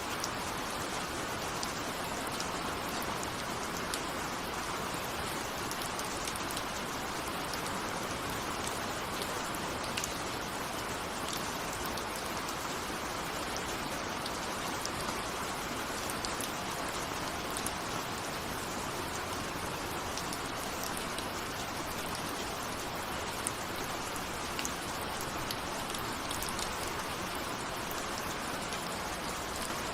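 Steady rain, a dense even hiss with many small individual drops ticking through it.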